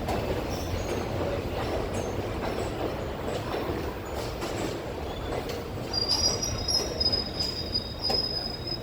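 New York City Subway R62 train running on the rails with a steady rumble and scattered clicks. About six seconds in, the wheels start a high, steady squeal that carries on.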